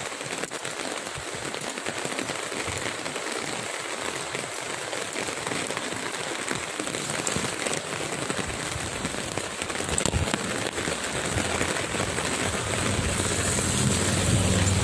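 Steady rain falling on a wet street, a dense crackling patter. A low rumble joins near the end as the sound grows louder.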